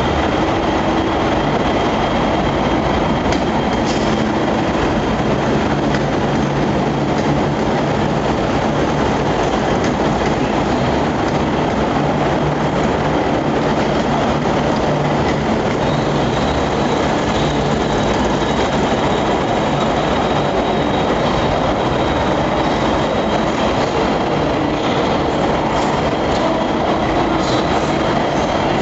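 Trains at a busy railway station platform: a loud, steady din of rail traffic with a constant low hum and a few thin whining tones, holding even throughout.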